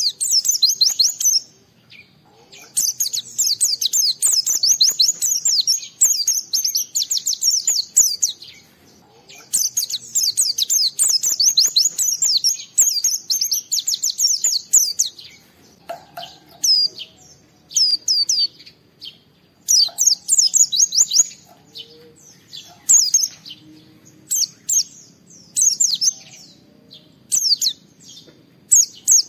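A pleci (white-eye) singing hard in a rapid, high twittering song. Two long unbroken runs of several seconds each come in the first half, then shorter bursts with pauses between them.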